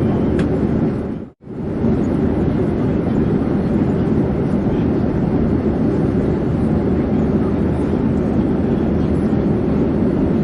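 Steady airplane drone, a dense, even rushing noise with a low hum. It dips out almost to silence for a moment about a second and a half in, then carries on unchanged.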